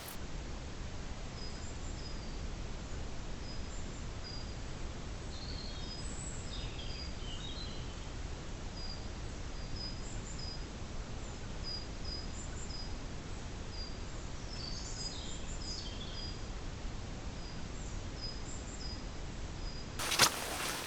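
Birds calling: a short high chirp repeated about once or twice a second, with a few more varied calls mixed in twice, over a low steady rumble. Near the end, a few sharp knocks come in.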